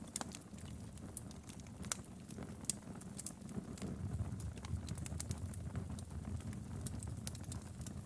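Wood fire crackling in a fireplace: a steady low rumble of the flames with irregular sharp pops and snaps, a louder snap just under three seconds in.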